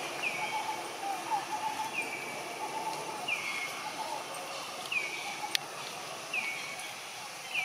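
A bird repeating a short, high, falling call about every second and a half, with a single sharp click about five and a half seconds in.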